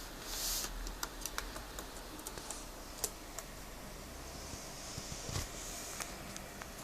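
A pet parrot at play: scattered light clicks and taps at an irregular pace, with a brief rustle about half a second in and another, softer one about five seconds in.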